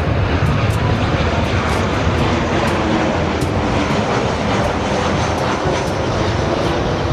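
Airplane engine sound, a steady rumble and rush of noise.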